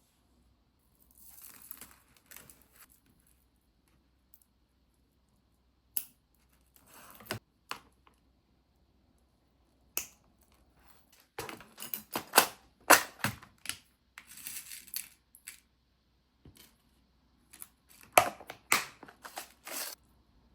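Small objects being handled at close range: scattered sharp clicks and taps mixed with short rustles, sparse at first and busier in the second half.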